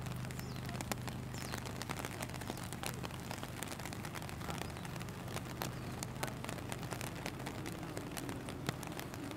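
Rain falling, with a dense scatter of sharp drop ticks close by, over a steady low hum.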